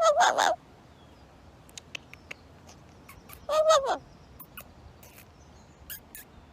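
A parrot gives two short calls about three and a half seconds apart, the second bending down in pitch at its end, with a few light clicks in between.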